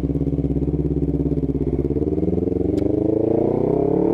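Honda CBR250RR parallel-twin engine running through an R9 GP series full-system aftermarket exhaust, loud and raspy; it holds a steady note, then its pitch climbs steadily over the last second and a half as the revs rise.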